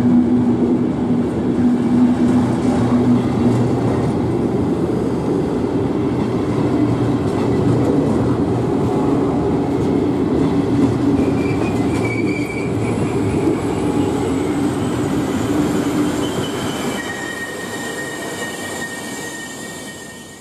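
Regional passenger train's coaches rolling past close by, a steady loud rumble of wheels on rail. About halfway through, thin high wheel squeals join in, and the sound dies away near the end.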